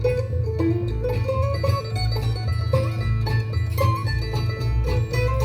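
Bluegrass band playing an instrumental break between verses, banjo prominent with quick plucked notes over guitar and a steady bass.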